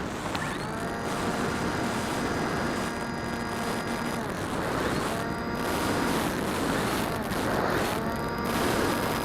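Phantom quadcopter's motors and propellers, heard from a camera mounted on the drone, running under a rush of wind noise. Three times the motor whine rises in pitch and then levels off: about half a second in, around five seconds and around eight seconds.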